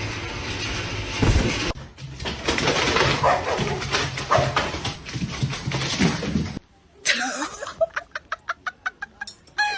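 A loud noisy stretch with a few pitched cries, then, from about seven seconds in, a run of quick repeated animal calls, about four or five a second.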